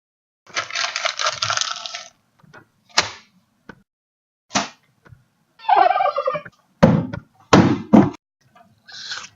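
A series of separate knocks and heavy thuds with silent gaps between them, after a longer rough scraping noise at the start; the strongest thuds come close together about two-thirds of the way through.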